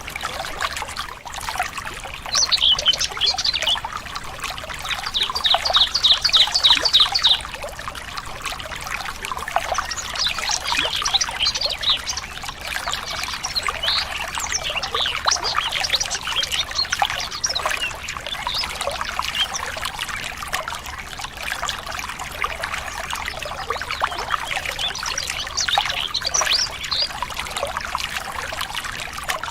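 Running water trickling steadily, with many birds chirping over it. About five seconds in, one bird gives a fast run of repeated notes, roughly five a second, for a couple of seconds.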